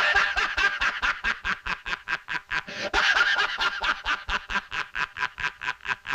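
Bald eagle giving its chattering, giggling call: a fast run of short, high, sharp notes, about five or six a second, fuller near the start and again about three seconds in.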